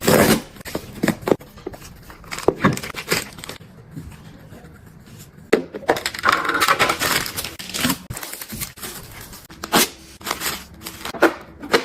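Household items being handled and put away: an irregular run of sharp clicks, knocks and rustles, as of containers and packaging being picked up and set down.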